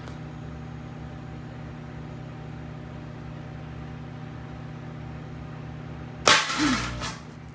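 Microwave oven running with a steady hum while halogen lightbulbs glow inside it. About six seconds in, a bulb bursts with a sudden, really loud bang that fades over about a second.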